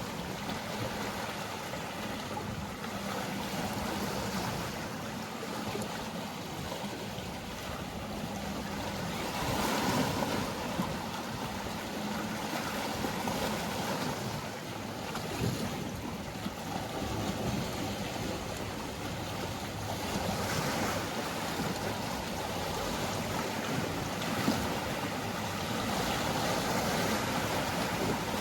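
Sea waves washing in, the surf swelling every few seconds, over a faint steady low hum of a boat engine.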